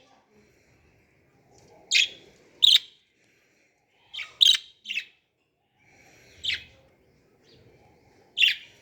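Lovebirds chirping: about seven short, sharp, high-pitched calls at irregular intervals, some in quick pairs.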